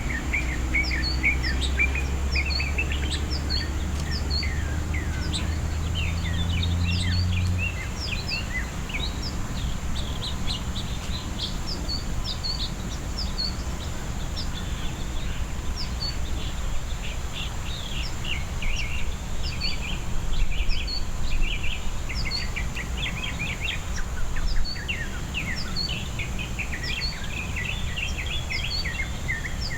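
Many small birds chirping together in a dense chorus of short, quick notes, over a low hum that stops about a quarter of the way through.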